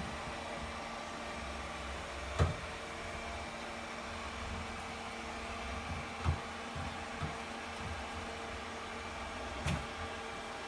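Ecovacs robot vacuum running with a steady motor hum while it manoeuvres, stuck between a chair's legs, bumping against them with a sharp knock about two and a half seconds in, another around six seconds and a third near the end, plus a few softer thuds.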